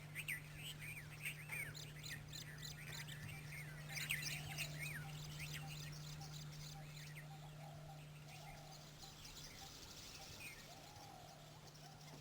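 Wild birds chirping: many quick, high chirps and whistles in the first half that thin out later, with a few lower warbling calls. A steady low hum runs underneath.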